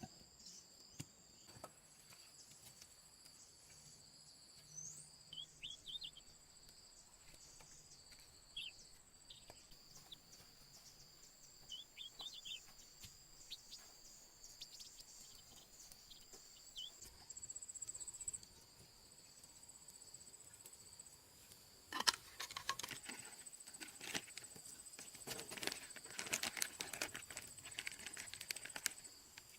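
Faint rainforest insects buzzing steadily in two high pitches, with a few short bird chirps. About two-thirds of the way in, a run of crackling and rustling sets in and lasts to the end, as of leaves or plant material being handled.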